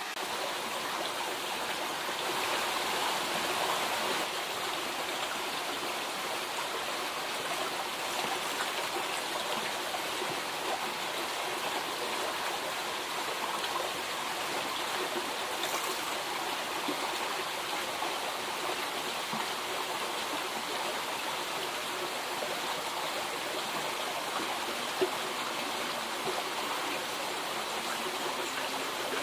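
River water flowing steadily, a constant rushing hiss, with one short sharp tick near the end.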